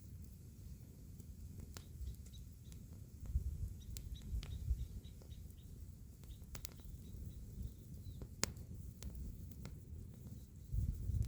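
Wood fire crackling, with scattered sharp pops and snaps over a low rumble that swells about three seconds in and again near the end. Faint short bird chirps sound in the background.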